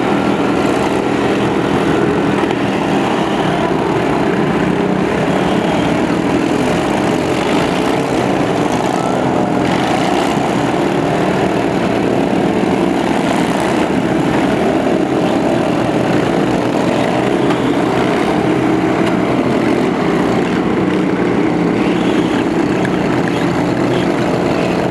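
Several small lawn tractor engines running together at once, a steady, loud mix of engine noise.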